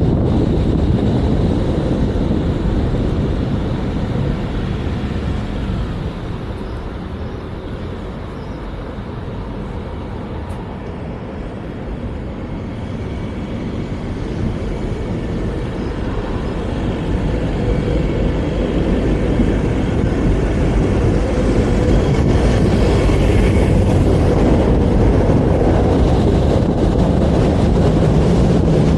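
Vario LF2R.E low-floor tram set running on the track, heard from on board: a steady rumble of wheels and running gear. It quietens about a quarter of the way in, then grows louder again through the second half.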